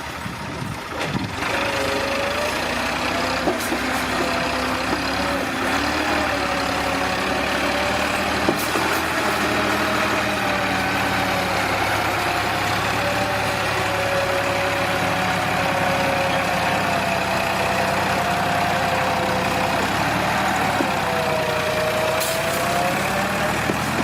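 Tractor or dumper-truck engine running steadily, its pitch rising and falling gently.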